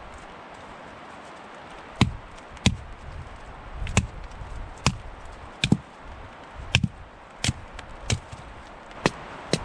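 Wood being chopped: about a dozen sharp blows with a dull thud, coming roughly every half second to a second from about two seconds in, over a steady low hiss.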